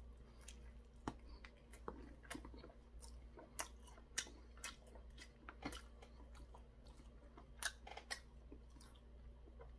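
A person biting into and chewing a battered, deep-fried chili pepper, heard as faint, irregular short clicks.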